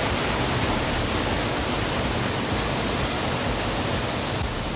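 Water cascading down a waterfall: a loud, steady rush of falling water.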